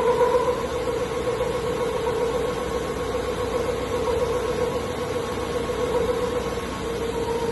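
CNC milling machine running with a steady whining tone over a constant hiss.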